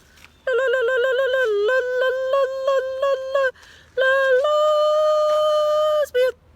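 A woman's voice giving a loud mock animal call: a rapid warbling, yodel-like trill for about three seconds, then after a short break one long held high note, ending with a brief yelp.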